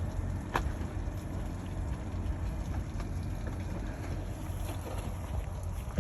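Wind buffeting the microphone outdoors, a steady low rumble, with one sharp click about half a second in.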